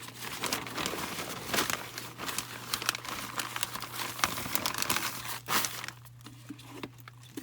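Plastic crinkling and rustling in dense, irregular bursts, easing off about five and a half seconds in, over a steady low hum.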